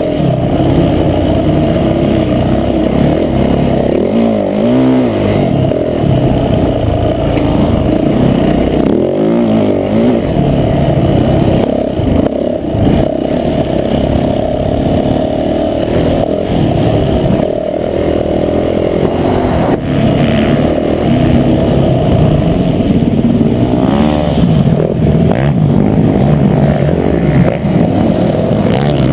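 Motocross bike engine revving hard and easing off over and over as the bike is ridden around the track, its pitch repeatedly climbing and dropping, heard from an onboard camera.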